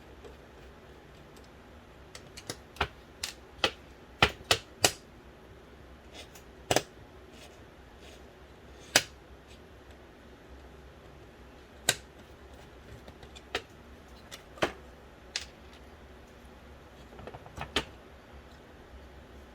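Irregular sharp clicks and taps of small plastic and metal parts and tools being handled while a Philips DVD drive from an original Xbox is taken apart, several close together near the start, then single clicks every second or few.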